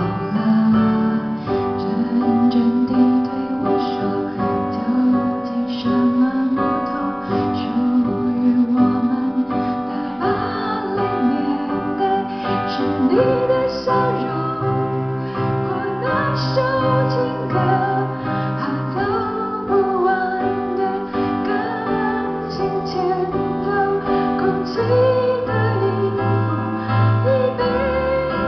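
Live pop ballad: a woman singing in Mandarin over acoustic guitar and piano, with a bass line.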